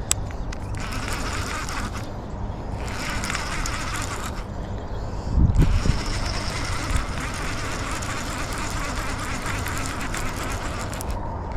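Fishing reel being cranked in spells while a hooked catfish is brought in, under a steady low rumble of wind and handling on the mic, with a heavier bump about five seconds in.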